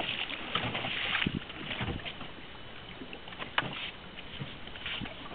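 Water lapping and splashing against a small fishing boat's hull, with hissy rushes in the first second or so and a single sharp knock about three and a half seconds in.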